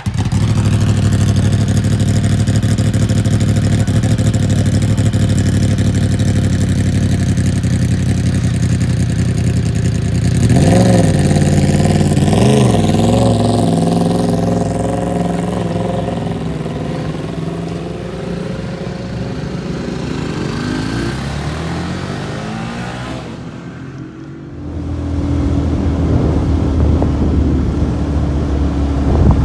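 Motorcycle engine under way while riding, running steadily. About ten seconds in, its pitch rises and falls a few times as it revs through the gears. It then eases off, drops briefly near the end, and picks up again.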